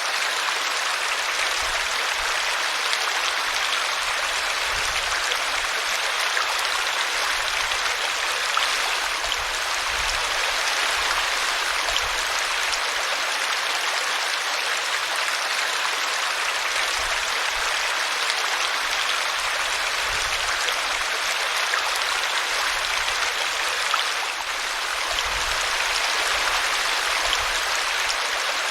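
Small brook running steadily, its water spilling over a tree root with an even, unbroken rush.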